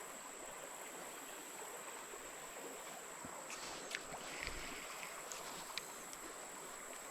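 Creek water running steadily, with a few faint clicks and knocks partway through.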